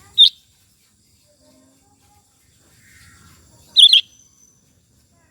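Sooty-headed bulbul (kutilang) giving two short, sharp, high calls: one just after the start and a quick double note about four seconds in.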